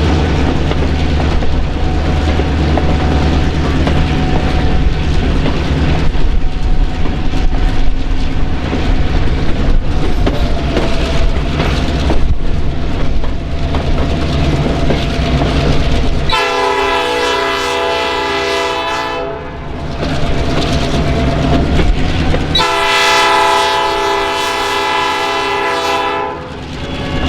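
Train running with wheels clattering on the rails and a low engine rumble, then two long blasts of a multi-tone train horn, the first about two-thirds of the way in and the second, slightly longer, near the end.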